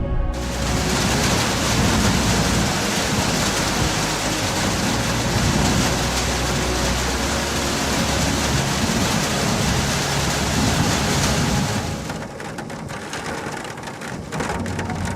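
Heavy storm noise: a dense, steady rush that starts suddenly, then drops about twelve seconds in to a lighter, crackling patter.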